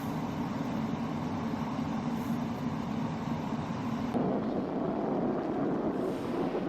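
A motor runs steadily with a low hum and noise, no distinct strokes or impacts. Its tone shifts slightly about four seconds in.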